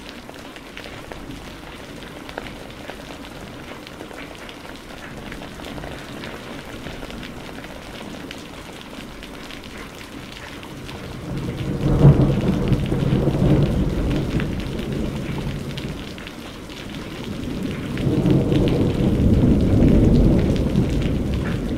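Steady rain falling, with two rolls of thunder: the first cracks in suddenly about halfway through and rumbles off over a few seconds, the second builds more gradually near the end.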